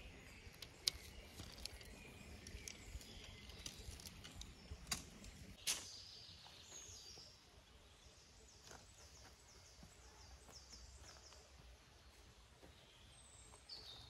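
Faint outdoor ambience with birds calling. In the middle a bird sings a run of about a dozen short, falling high notes, roughly three a second. A few sharp clicks and knocks sound in the first half.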